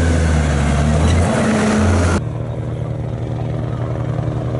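Dakar rally truck diesel engines running, the pitch shifting up about a second in. About two seconds in the sound cuts abruptly to another steady engine with a fast, even pulse.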